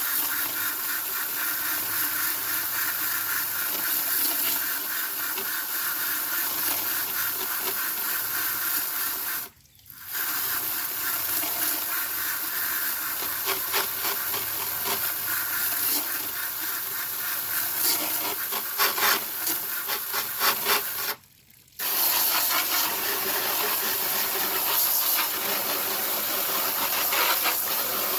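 Garden hose nozzle on its jet setting spraying water hard against the grimy blower wheel fins of a window air conditioner, a steady hiss and splatter. The spray cuts out briefly twice, about ten seconds in and again about twenty-one seconds in, and comes and goes unevenly just before the second stop.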